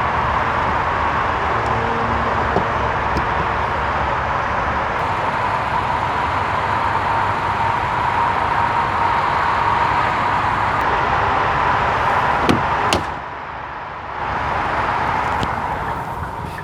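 Steady rushing background noise with a faint steady high tone. About twelve and a half seconds in come two sharp knocks close together, a car door shutting, after which the noise drops.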